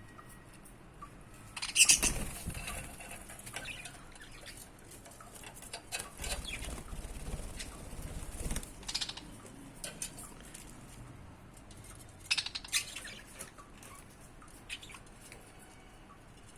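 Budgie flapping its wings in short bursts, the loudest about two seconds in and another cluster near twelve seconds, with light clicks and scratches in between.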